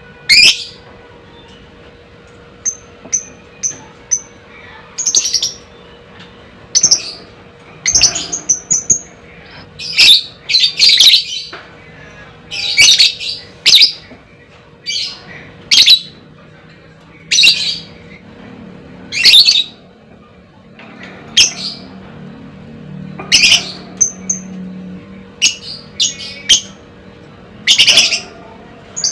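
Lovebird calling: loud, shrill chirps and short chattering bursts repeated every second or two, the calls of a lovebird kept to stir other lovebirds into calling.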